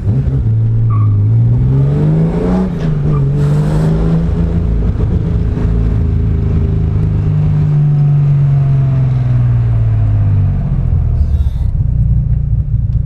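Chevrolet Caravan's naturally aspirated inline-six engine being revved through its exhaust. The pitch rises over the first couple of seconds, dips briefly, then climbs again and holds high for several seconds. It falls back to idle about ten seconds in.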